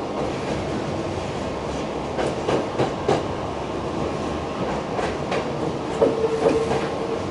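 Hankyu electric train running at low speed, heard from inside the front car: a steady rumble, with clacks as the wheels cross rail joints and points, bunched about two seconds in and again around six seconds. A thin steady whine from the wheels on the curve comes in near the end.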